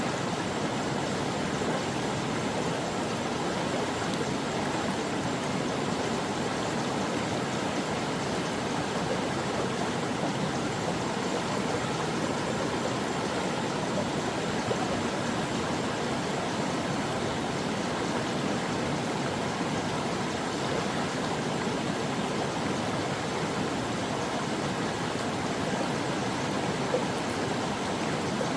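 Stream water flowing and babbling over rocks, a steady, even rush.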